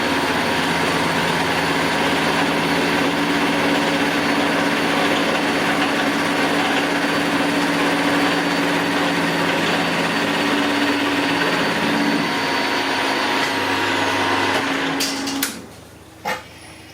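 Milling machine face-milling the top of a metal plate with a shell mill: a steady machining noise with a constant hum, which cuts off about a second and a half before the end, followed by a few sharp clicks.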